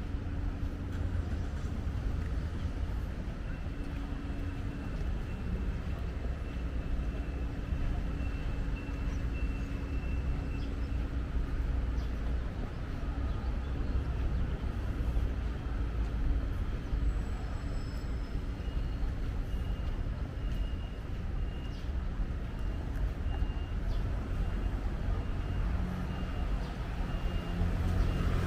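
City street traffic: a steady low rumble of passing cars and other vehicles, growing louder near the end as a vehicle comes close.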